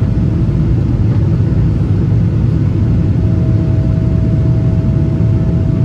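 Boeing 777-300ER's GE90 jet engines running at takeoff power: a loud, steady rumble with a thin, even whine above it.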